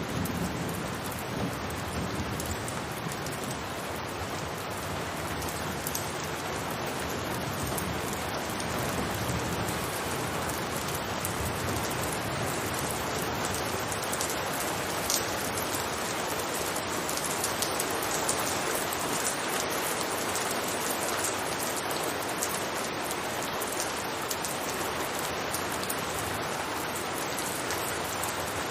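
Steady rain falling on a roof, with scattered sharper drop ticks over a constant hiss.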